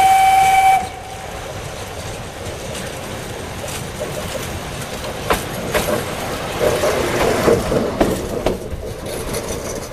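A horn sounds one loud, steady note that stops just under a second in. Then the Petit Train Jaune, a narrow-gauge electric train, runs along the track with a steady rumble and sharp clicks of its wheels over the rail joints, clattering most between about six and eight seconds in.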